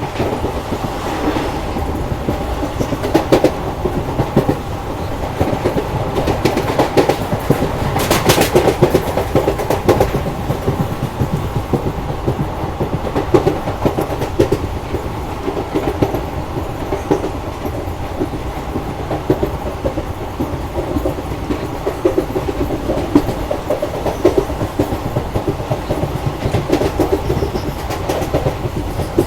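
Koyna Express passenger train running, its wheels clattering steadily over the rail joints, with a louder burst of clatter about eight seconds in.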